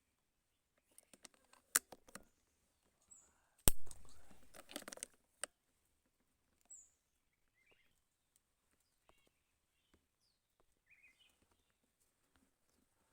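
A single sharp crack about four seconds in, followed by about a second of rustling clatter, with a few lighter clicks around it. Short high bird chirps come every few seconds.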